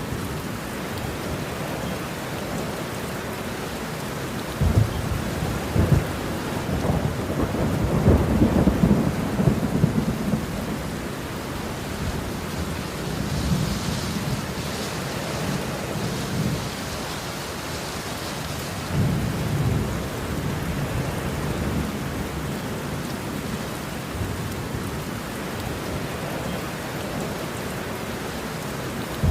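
Steady heavy rain with rolling thunder: a long low rumble about four to eleven seconds in, the loudest part, and a shorter one near twenty seconds.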